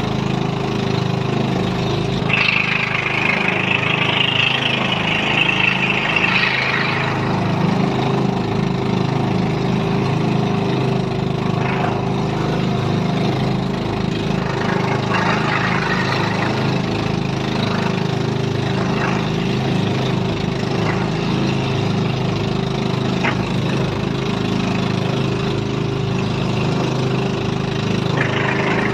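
Small engine of a motorized bamboo outrigger boat (bangka) running steadily at cruising speed, with water rushing past the hull.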